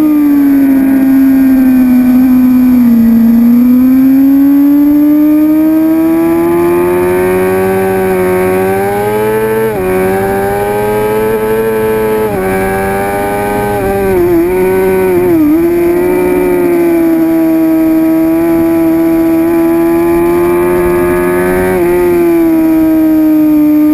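2006 Suzuki GSX-R750 inline-four engine running hard around a racetrack. Its pitch climbs steadily, drops sharply at gear changes about ten and twelve seconds in, and wobbles briefly a little after the middle before holding steady.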